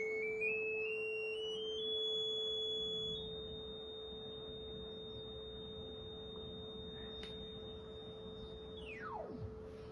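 Two synthesized sine tones: a steady lower tone held throughout, and a higher tone that climbs in small steps for the first three seconds as its frequency is raised, holds steady, then sweeps rapidly down and cuts off near the end.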